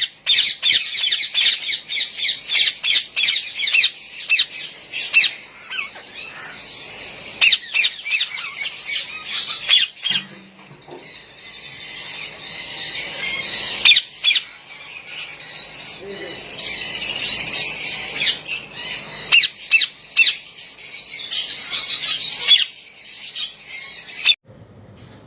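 Many caged parrots calling at once: a dense, continuous stream of short, shrill chirps and squawks that thins for a few seconds in the middle and cuts off suddenly near the end.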